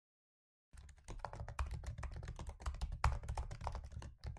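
Typing on a computer keyboard: a fast run of key clicks starting about a second in.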